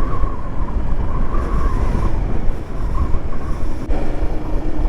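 Motorcycle riding noise from a Royal Enfield Himalayan 450: heavy, steady wind buffeting on the microphone over the engine and road.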